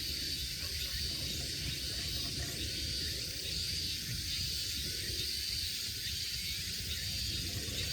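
Steady chorus of insects chirping in a high, even band over a low steady rumble.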